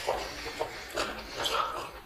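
People chewing mouthfuls of mutton biryani, with irregular small mouth clicks.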